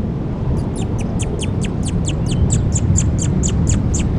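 A bird calling in a fast, even series of high, thin chirps, each sliding down in pitch, about five a second, starting under a second in, over a steady low rumble.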